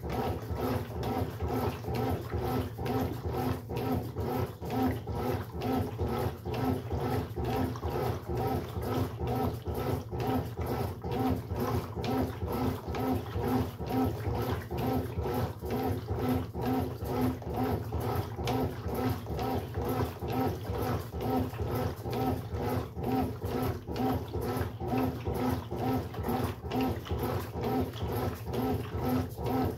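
Brastemp Sexto Sentido 8 kg washing machine running its wash cycle: the motor churns the load in an even rhythm of about two strokes a second, with a low hum underneath.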